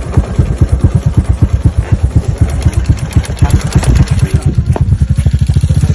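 A small engine running close by, its uneven beat settling into a faster, even one near the end.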